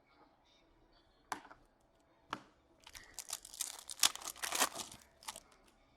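Foil wrapper of an Upper Deck SP Authentic hockey card pack being torn open and crinkled: two sharp snaps, then about two and a half seconds of dense crackling.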